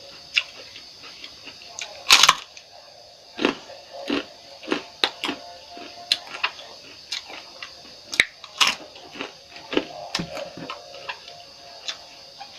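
Close-miked eating sounds: irregular sharp clicks and smacks of mouth and utensils, over a faint steady hum.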